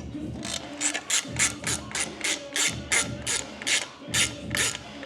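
Ratcheting clicks in quick, evenly repeated strokes, about two or three a second.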